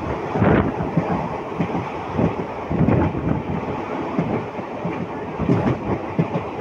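Indian Railways passenger coach running along the track, heard from its doorway: a steady rolling rumble of wheels on rails with frequent, irregular clattering knocks.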